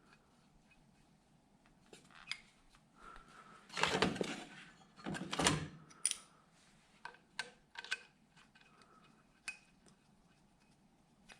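Metal tools and parts being handled: scattered clinks and knocks, with two louder rasping bursts of about half a second each, around four and five and a half seconds in.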